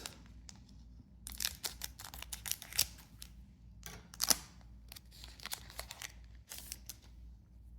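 Trading-card booster pack being opened by hand: the foil wrapper crinkling and tearing, with a string of sharp crackles and clicks, the loudest a little past the middle.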